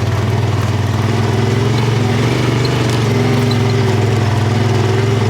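Buggy's engine running steadily, with a slight lift in pitch a little past halfway.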